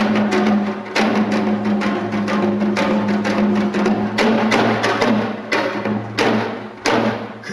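Janggu (Korean hourglass drum) played in a fast, dense run of sharp stick and hand strokes over a steady low sustained drone.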